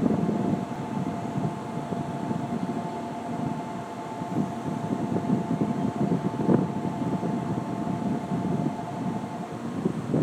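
Shinkansen train at the platform: a steady low rumble with two high steady tones held together, which stop near the end.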